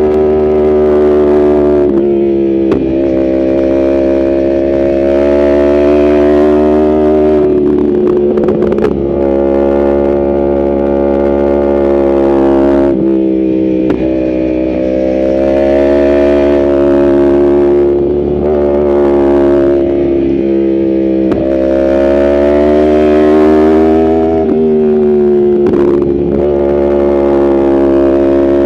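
Yamaha R1 inline-four sport bike engine running hard at high revs. The pitch holds fairly steady for stretches, then jumps suddenly several times as the rider changes gear.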